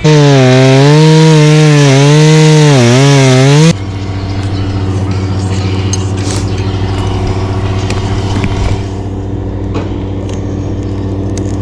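Chainsaw running at full throttle, its pitch dipping and recovering under load, then cutting off suddenly a little under four seconds in. A steadier, quieter engine hum runs on underneath.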